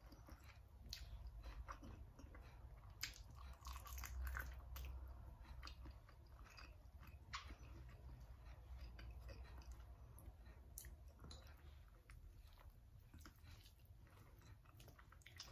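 Faint chewing with small wet mouth clicks and smacks: a person eating chicken feet cooked in coconut milk, chewing around the many small bones.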